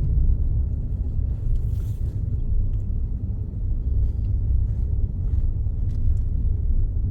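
Steady low rumble of a car's engine and tyres on the road, heard from inside the cabin while the car is driving along.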